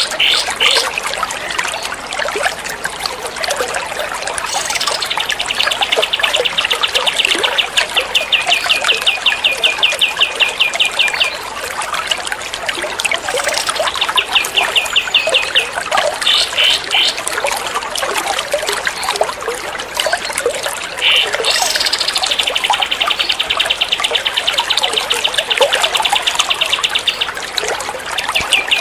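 Recorded songbird calls looped over trickling water: long, rapid, machine-gun-like rattling trills, several lasting a few seconds and some opening with a quick rising note, set against a steady trickle of running water.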